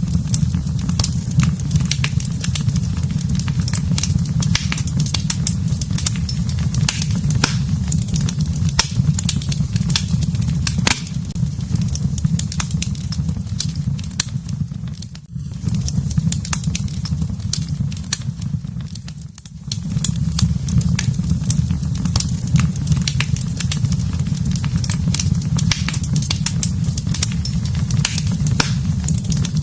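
Wood fire in a fireplace crackling and popping, with many sharp snaps over a steady low rumble of the flames. The sound fades briefly twice, once about halfway and again a few seconds later.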